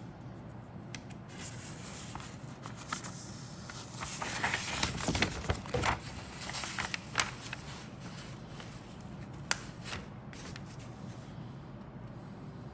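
Rustling and crackling of plastic kit parts and their packaging being handled, with a few sharp clicks. It is loudest in the middle and dies away near the end, over a steady low hum.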